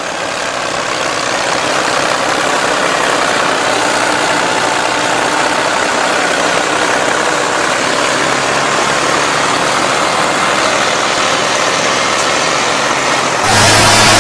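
Tractor engine running steadily. Near the end it gets suddenly louder, with a strong steady low hum.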